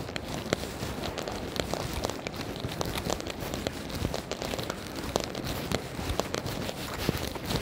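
Rain falling on wet city pavement and slush, with many irregular sharp crackling drop clicks close to the microphone.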